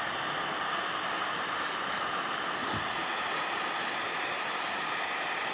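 Heat gun blowing a steady hiss while shrinking heat-shrink tubing over crimped wire connections.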